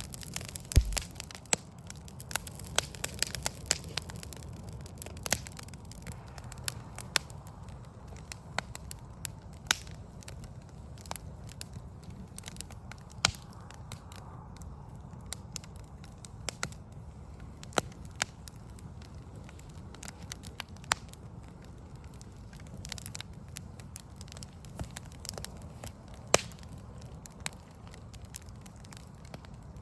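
Wood fire of burning logs crackling, with irregular sharp pops, more frequent in the first several seconds and sparser after, over a steady low rumble.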